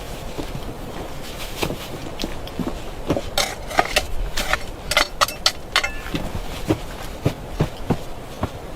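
A run of irregular sharp knocks and clacks of hard objects striking, busiest and loudest in the middle, with a few ringing briefly.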